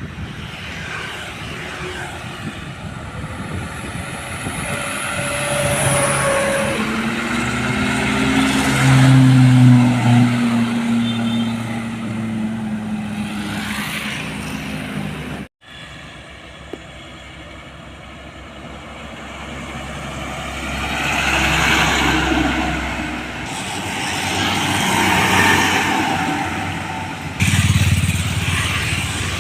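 Heavy diesel trucks driving past on a road, each engine swelling and fading as it passes. The sound breaks off abruptly about halfway, then more vehicles pass.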